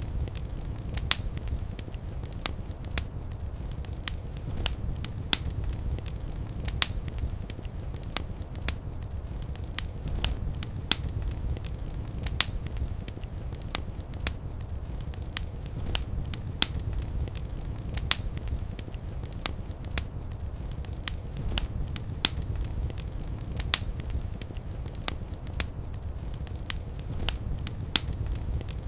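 Fire in a fireplace crackling: frequent sharp, irregular pops and snaps over a steady low rumble of the flames.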